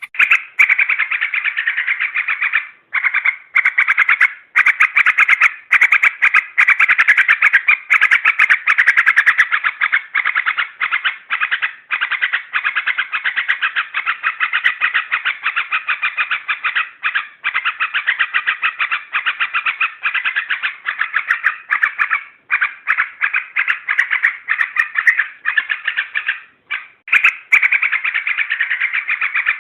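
Yellow-vented bulbul (trucukan) calls: a dense, rapid chattering with short breaks, played from a lure recording.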